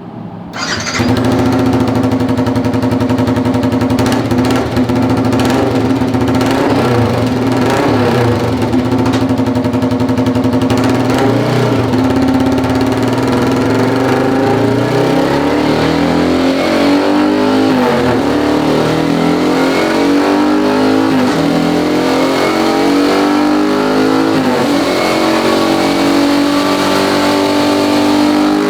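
Small single-cylinder motorbike engine running through a 3Tech EvoX ADB-series aftermarket exhaust. It holds a steady speed, then from about halfway its pitch climbs steadily as it accelerates.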